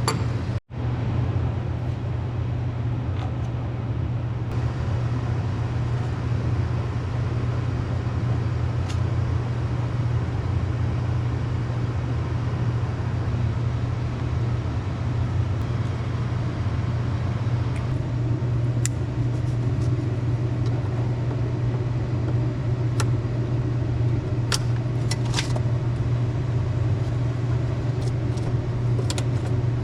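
Steady low machine hum, like an engine running, with scattered light clicks and taps in the second half.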